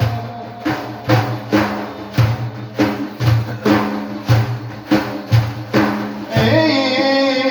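Hand-struck frame drums with jingles play a steady beat, about one deep stroke every two-thirds of a second, between sung lines of a religious praise song. A male voice comes back in with a held sung note near the end.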